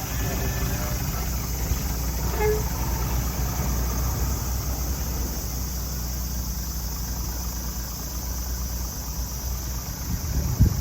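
Old car's engine idling steadily through a freshly made one-off exhaust with no catalytic converter. The muffler and outlets are cut from a vintage Trust dual muffler, and the note is a low, even exhaust pulse. A brief louder knock comes near the end.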